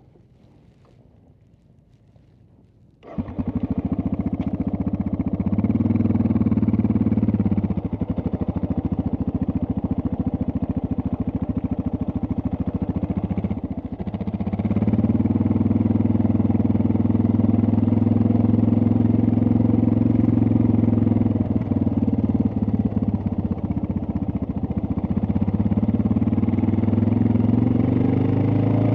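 Suzuki DR650's single-cylinder four-stroke engine starting up about three seconds in, then idling steadily, its level shifting a few times; near the end the pitch begins to rise as it is revved.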